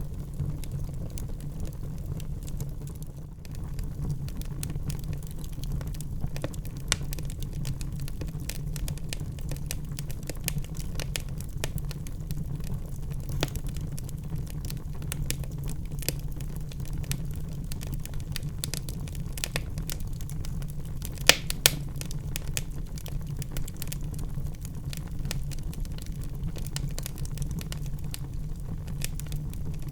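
Wood fire burning in a fireplace: a steady low rumble of the flames with irregular sharp crackles and pops, two louder pops close together about two-thirds of the way through.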